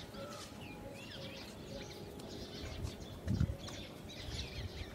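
Small birds chirping and twittering in the background, with one soft low thump about three seconds in.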